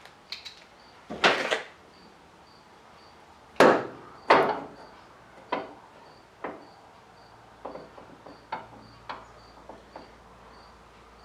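Metal knocks and clanks of a screwdriver and pliers working a worn door hinge pin loose on a 1985 GMC pickup's door hinge: a few loud strikes in the first half, then lighter knocks and clicks.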